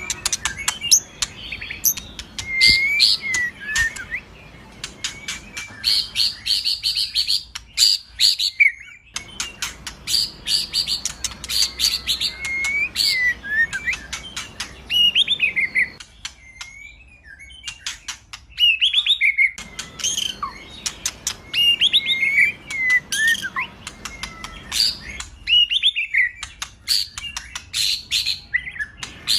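White-rumped shama (murai batu) singing a fast, varied song: whistled slurs and upward and downward glides mixed with dense runs of sharp clicking notes, in bursts with short pauses between phrases.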